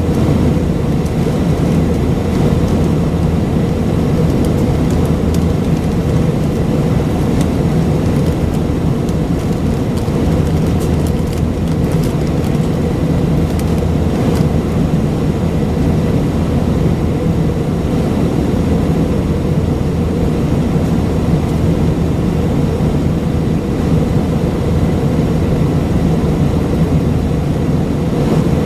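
Airbus A319-132 cabin noise from a seat near the wing: its IAE V2500 turbofan engines and airflow make a loud, steady rush with a constant low hum, and faint ticks of cabin rattle now and then.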